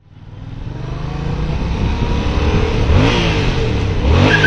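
Motorcycle engine accelerating through the gears, its pitch climbing and then dropping sharply at a gear change about three seconds in and again near the end, with wind and road noise underneath. It fades up from silence at the start.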